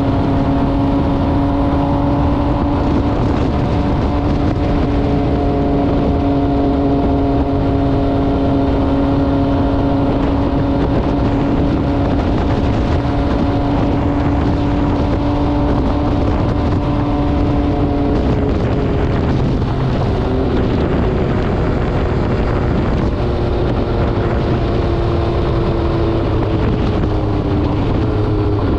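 MV Agusta Brutale 800RR's three-cylinder engine, breathing through an SC-Project exhaust, running at steady cruising revs while riding. The engine pitch drops a little about two-thirds of the way through and falls again near the end as it slows, under a steady rush of wind and road noise.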